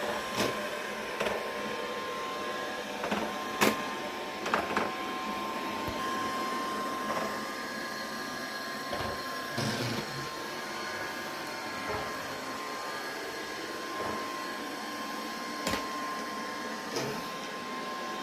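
Britânia BAS03V robot vacuum running with a steady motor whine, punctuated by several sharp clicks and knocks, the loudest about three and a half seconds in.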